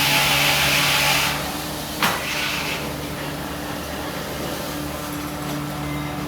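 Old machinery running: a loud hiss that stops after about a second, a single sharp knock about two seconds in, then a steady hum.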